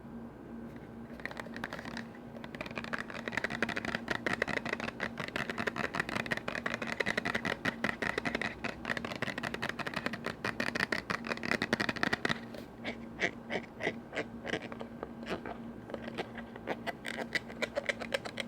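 Fast ASMR tapping and scratching on lids, a dense run of quick clicks. From about two-thirds of the way through it thins into slower, separate taps.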